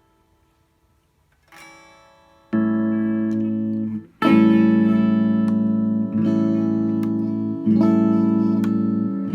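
Gibson SG Modern electric guitar chords through an amp, cutting in and out as the pickup selector switch is worked. After a second and a half of near silence a faint chord fades away, then loud sustained chords come in. The sound cuts out briefly about four seconds in and dips twice more: the malfunctioning switch the owner calls toast.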